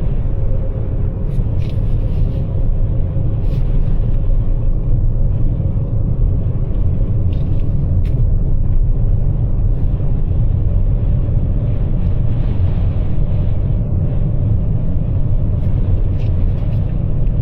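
Steady, loud low rumble of tyre and road noise inside the cabin of a Toyota RAV4 Prime driving on Bridgestone Blizzak DM-V2 winter tyres over a snowy highway, with a faint steady hum above it.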